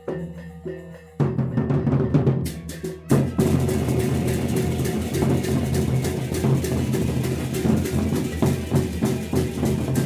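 Gendang beleq ensemble playing: a quieter repeating pitched figure gives way, about a second in, to loud, dense drumming with cymbals, which surges again about three seconds in.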